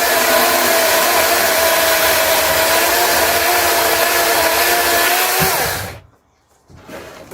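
DeWalt 18 V cordless chainsaw running with a steady whine while cutting small logs, then winding down and stopping about six seconds in. A few light knocks follow near the end.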